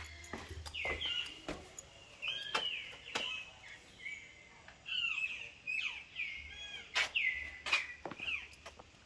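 Birds chirping and calling: short sliding notes come again and again throughout, with a few sharp clicks here and there.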